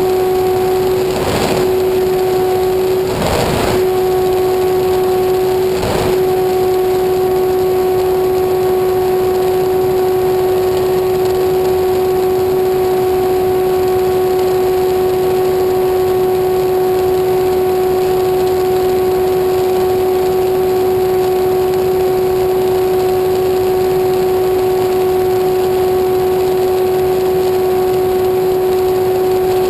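A small motor running at a constant speed, giving a loud, steady drone of unchanging pitch. A few short gusts of noise pass over it in the first six seconds.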